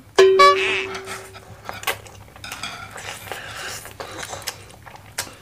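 A metal utensil clinks sharply against a dish just after the start and rings for about a second and a half. Then come small wet clicks of noodles being slurped and chewed.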